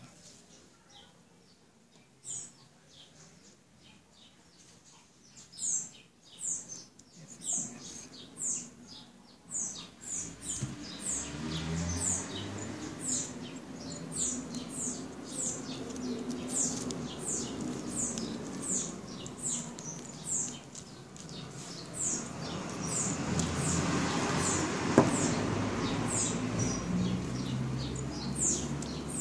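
A bird chirping over and over: short, high chirps about twice a second, starting a couple of seconds in. From about ten seconds in a low rumbling noise rises underneath and stays, loudest a few seconds before the end.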